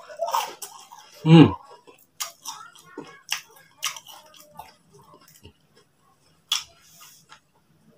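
Close-up chewing of crispy fried tofu: a crunchy bite near the start, then scattered wet clicks and smacks of chewing. About a second in there is a brief low sound that falls in pitch, the loudest moment.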